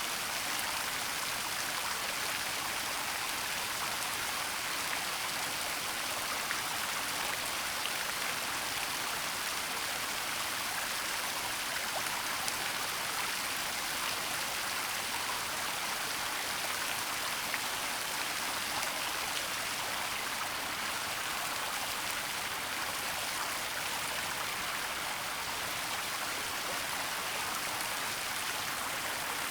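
Waterfall in a forest: a steady, even rush of falling water.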